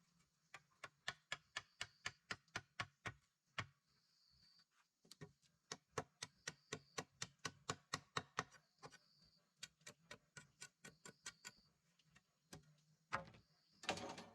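Quick runs of sharp knocks, about four to five a second, pausing and starting again, with a longer, louder scraping burst near the end.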